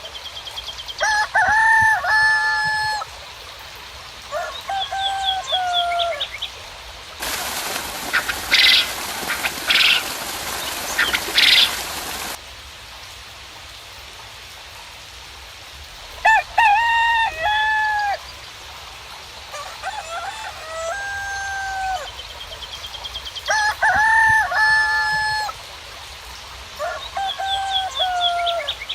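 Roosters crowing again and again, each crow a long stepped call of a second or two, with faint high bird trills between crows. In the middle, a loud hiss runs for about five seconds and then cuts off suddenly.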